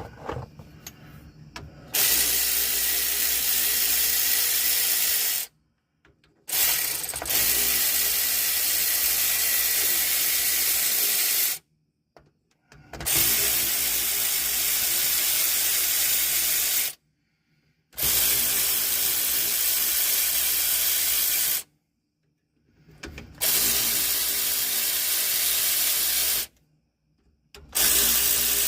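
Power ratchet running on the rear differential cover bolts of a car, a loud hissing, rasping whir in six runs of a few seconds each with short stops between, as the bolts are backed out to drain the gear oil.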